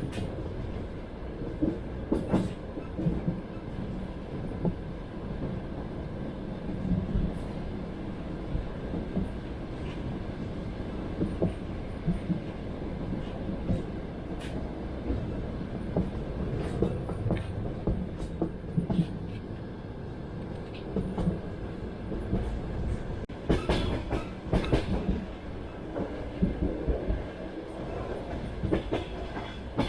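Train running on rails: a steady low rumble with the wheels knocking and clacking over rail joints, the knocks bunching together about three-quarters of the way through.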